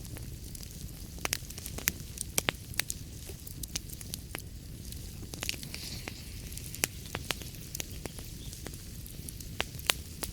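Wood fire in a fireplace crackling: irregular sharp pops and snaps, a cluster of them about a second or two in, over a steady low rumble and soft hiss of burning.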